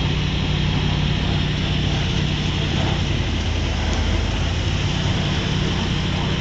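A vehicle engine running steadily, a low even hum over a steady wash of outdoor noise.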